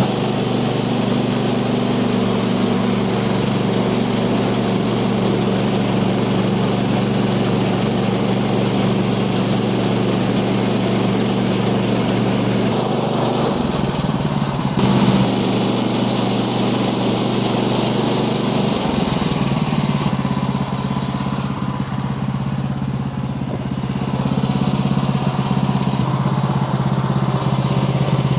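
Portable sawmill's gas engine running steadily at a fixed speed, with a steady hiss over it that eases off about twenty seconds in and comes back near the end.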